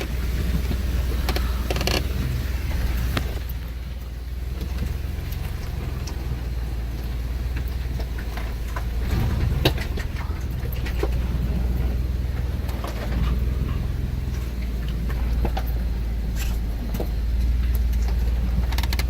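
Off-road vehicle crawling down a rocky mountain trail: the engine runs with a steady low drone from inside the cabin. Scattered sharp knocks and clicks come from the tyres and suspension over the rocks.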